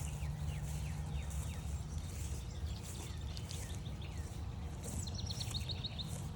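Footsteps on a trail, about one and a half steps a second, over a steady low rumble, while songbirds call with short falling notes and one bird gives a quick run of high notes about five seconds in.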